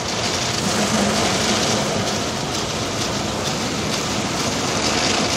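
Automatic car wash spraying water onto the car, a steady rushing patter heard from inside the cabin, with a faint low machine hum in the first couple of seconds.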